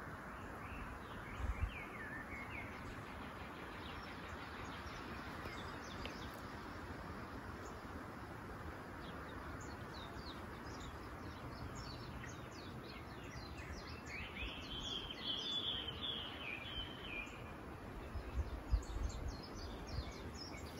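Birds chirping and calling over a steady outdoor hiss, with one longer call lasting a few seconds past the middle. A few low thumps come near the start and again near the end.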